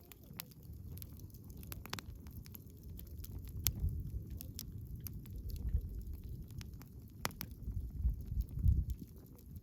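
Wood bonfire crackling, with frequent sharp pops and snaps over a low, uneven rumble that swells a few times.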